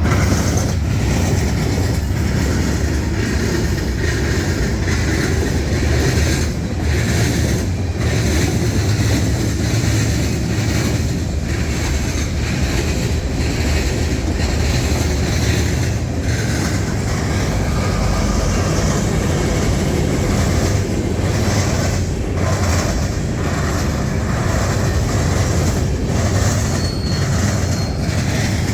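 A train rolling past close by: a steady heavy rumble of wheels on rail, with clatter as the wheels cross rail joints.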